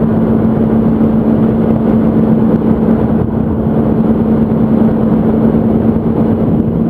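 Yamaha R1 inline-four motorcycle cruising at a steady highway speed: an engine drone holding one pitch under loud, steady wind and road noise.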